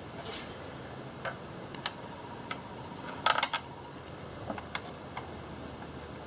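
Scattered light metallic clicks and clinks of hand tools and fasteners being handled while reassembling an engine, with a louder quick cluster of clinks about three seconds in, over a steady hiss.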